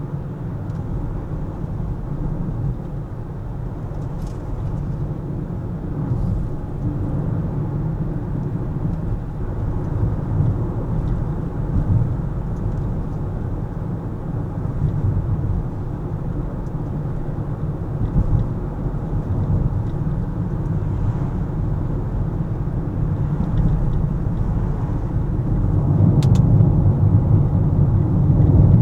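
A car driving on city roads: a steady low rumble of engine and tyre noise, growing louder near the end.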